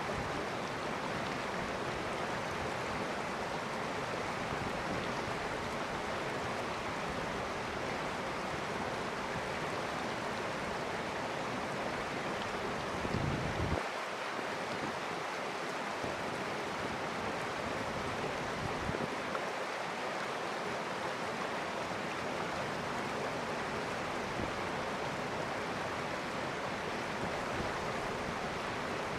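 River water flowing steadily in an even rush. About halfway through there is a brief low rumble that cuts off suddenly.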